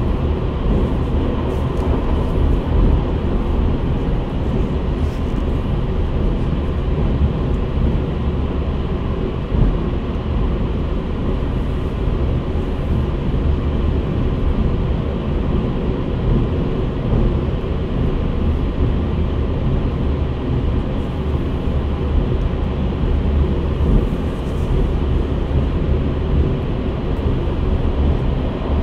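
Steady running noise inside a JR Central 383 series limited express motor car cruising at speed: a constant deep rumble of wheels on rail and the bogie beneath a seat at the car's end.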